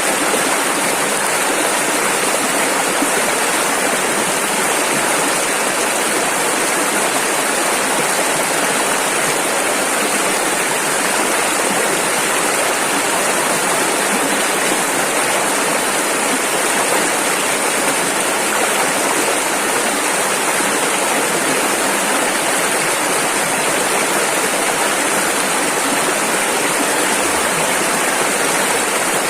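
Rushing river water, a steady full rush of turbulent flow with no breaks or changes.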